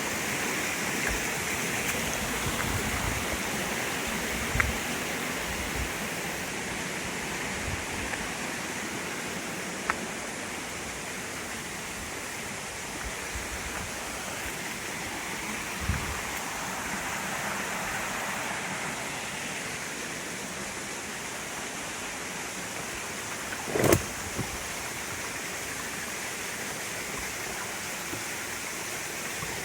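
Rushing water, a steady even roar, broken by a few short low thumps, the loudest about three-quarters of the way through.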